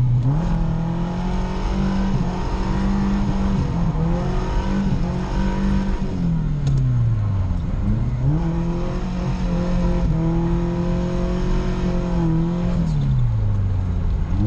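Toyota 1UZ 4.0-litre V8 in a Nissan 240SX, heard from inside the cabin, held at high revs through a drift. The revs drop away and climb back about halfway through, then fall again near the end.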